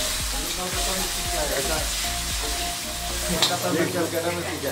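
Chicken and peppers sizzling as they are stir-fried in a wok, stirred with a ladle, over a low steady rumble. About three and a half seconds in, the rumble stops and voices start.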